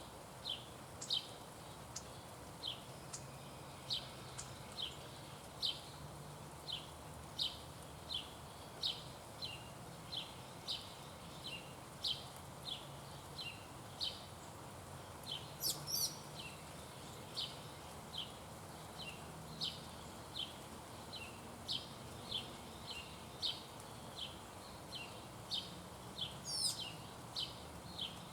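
Repeated short, sharp chip calls, about one or two a second, keeping an even rhythm throughout, with a louder, higher call about halfway and another near the end.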